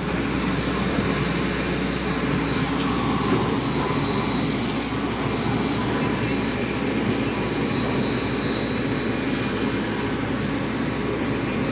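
Steady airport background noise: a constant low rumble and hum with a faint murmur of people.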